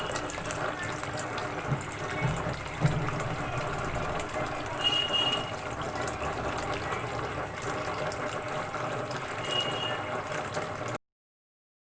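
Water running and splashing steadily in a small homemade tabletop waterfall. Three short high chirps come through about five seconds apart, and the sound cuts off abruptly near the end.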